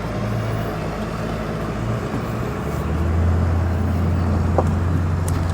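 Vehicle engine running steadily with a low hum; about three seconds in its note deepens and gets louder.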